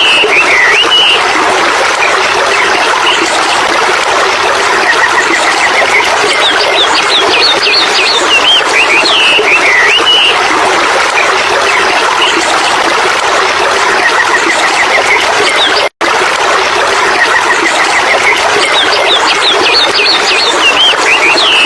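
Steady rush of running water with songbirds chirping over it; the same burst of chirps comes back roughly every ten seconds, as in a looped nature recording. The sound cuts out for an instant about three quarters of the way through.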